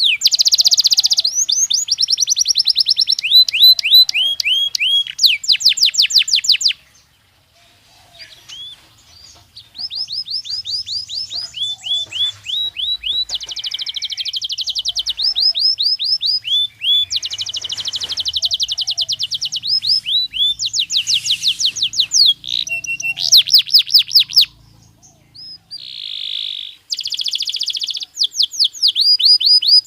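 Belgian canary singing: long, rapid trills of repeated high notes in phrases, with short pauses between the runs, the longest about seven seconds in.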